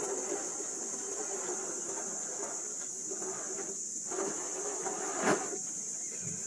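Small-scale MN78 RC car's electric motor and gearbox whirring, its pitch wavering as the throttle changes, over a steady high hiss. A single sharp click about five seconds in.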